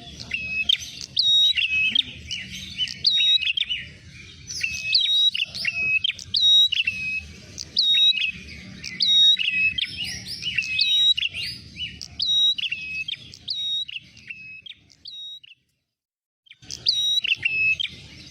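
Prenjak merah calling as a bird-lure recording: a fast, dense series of sharp, high chirps repeated over and over, several overlapping, above a low rumble. The calls break off briefly near the end, then start again.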